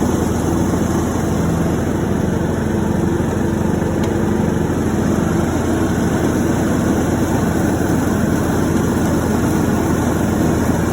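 John Deere E110 lawn tractor's 540cc single-cylinder engine running steadily.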